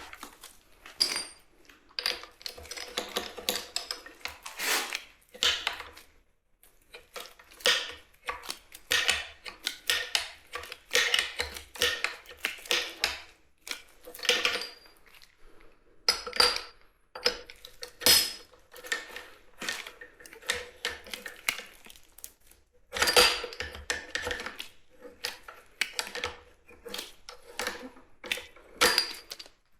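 Metal tools and engine parts clinking and knocking against each other in irregular clusters, with short metallic ringing: hand work on a small petrol engine under repair.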